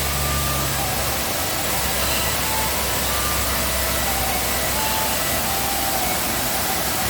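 Steady rush of a waterfall in heavy rainy-season flow, with brief high whistled notes scattered over it.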